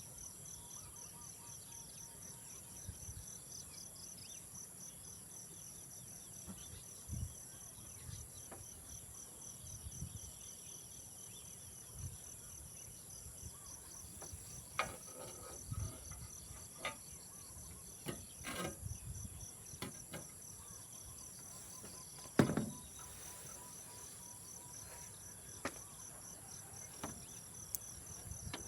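A steady, high-pitched chorus of insects chirring, one of them in a rapidly pulsing trill. Scattered short knocks and clicks come through it, the loudest about 22 seconds in.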